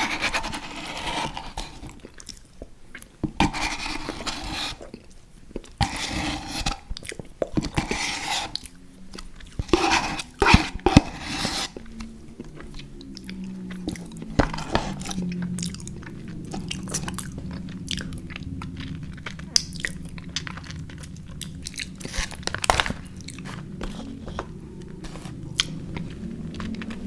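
Close-miked eating sounds: crunchy bites and chewing, loud and frequent for about the first twelve seconds, then quieter, softer chewing.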